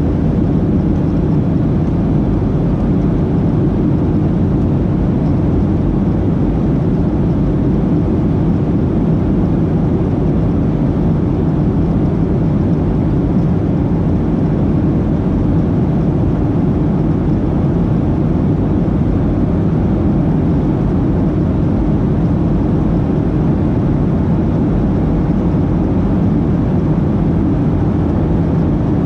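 Steady cabin noise inside a Boeing 737-800 in flight: the constant rumble of its CFM56 turbofan engines and the rushing air, even and unbroken throughout.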